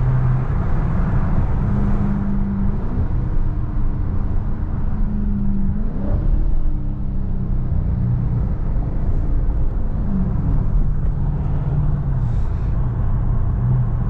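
Dodge Scat Pack's 6.4-litre HEMI V8 pulling under throttle on a wet road. Its pitch climbs twice, early and about midway, then drops away later, over steady road and tyre noise.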